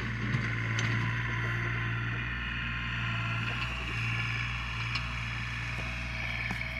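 An engine running steadily at a constant pitch, with a few light knocks over it.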